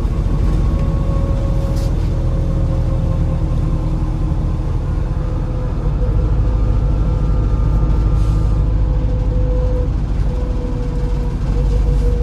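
MAZ-203 city bus under way, heard from inside the cabin: a steady heavy engine and road rumble with a constant whine above it. The rumble gets heavier about halfway through.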